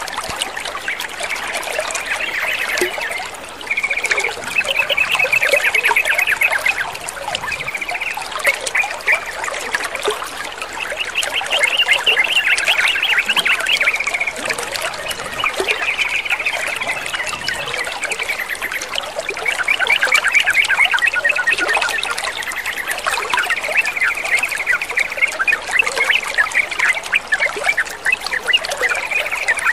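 Yellow-vented bulbuls (trucukan) chattering in phrases of rapid notes, one to three seconds long, over a steady trickle of running water.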